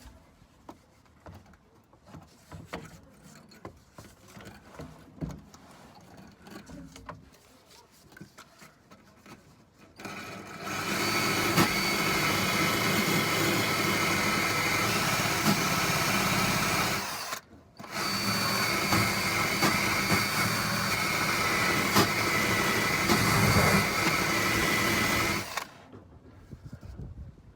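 Power drill spinning a small wire wheel against rusty steel, scrubbing surface rust from a car's underside. A few quiet clicks and knocks come first; about ten seconds in the drill starts and runs steadily with a high whine, stops for a moment, starts again and runs until shortly before the end.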